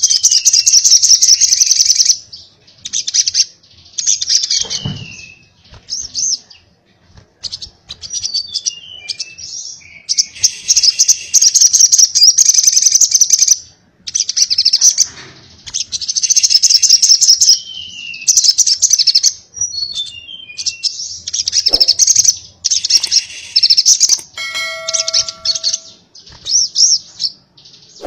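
Little spiderhunter (sogok ontong) singing: repeated bursts of rapid, high chattering trills a few seconds long, broken by short gaps and mixed with quick downward-sliding whistles.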